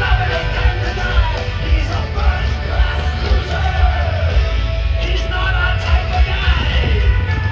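Rock band playing loudly, with a singer over heavy bass and drums.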